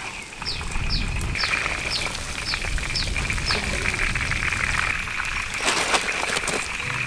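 A bird calling over and over in short falling chirps, about two a second, above a steady high-pitched whine. A brief burst of clicks and rattles comes near the end.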